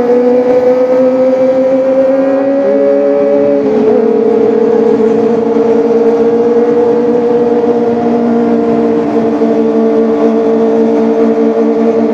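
Kawasaki ZX-25R's 250 cc inline-four engine running hard at high revs, a steady high-pitched engine note. The pitch climbs slowly, drops sharply once a little under four seconds in, then holds nearly steady.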